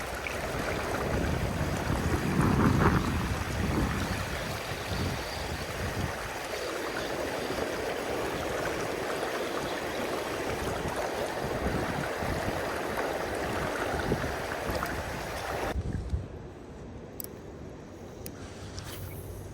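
Delaware River water flowing and rushing, a steady noise that swells for a moment about two to three seconds in. About sixteen seconds in it cuts off abruptly, leaving a quieter background with a few faint clicks.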